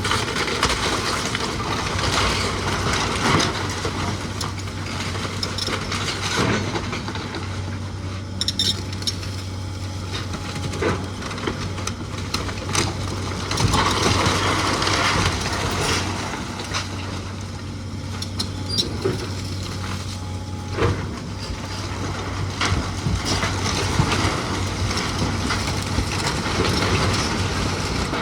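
A machine engine running steadily under irregular clanks, knocks and crunching, like wood and debris being broken and pushed about during the demolition of an old house.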